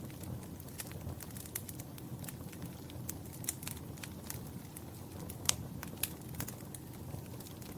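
Fire in a fireplace crackling: irregular sharp pops and snaps over a low steady rumble, with one louder pop a little past halfway.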